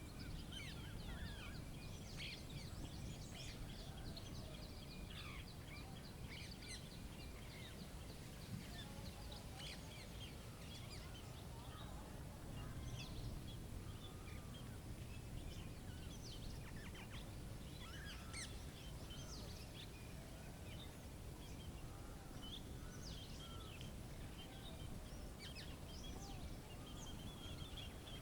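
Small birds chirping and calling in short, scattered high notes throughout, over a steady low rumble of wind.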